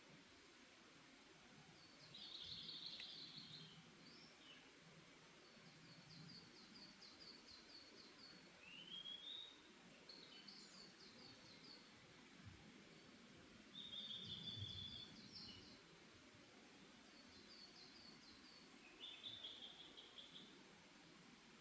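Faint songbird chirping: short high trills and chirped phrases every few seconds, including a quick rising call and a few steady buzzy notes, over a soft hiss of forest ambience.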